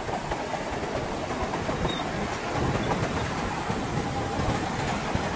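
Shantui DH17C2 crawler bulldozer working: engine running under a steady rumble with a dense, irregular clatter from the steel tracks.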